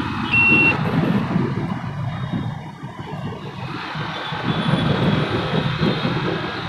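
Wind rumble on a helmet-mounted microphone mixed with the noise of a moving motorcycle and road traffic. A short high beep sounds under a second in.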